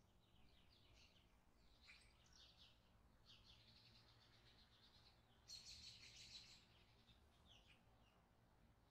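Faint bird chirping in short repeated phrases, with a denser, louder trill about halfway through, over near silence.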